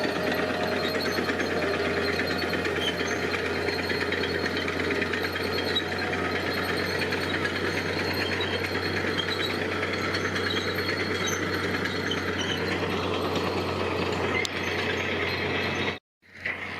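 Heavy diesel construction machinery running steadily with a fast, even clatter, cut off abruptly near the end.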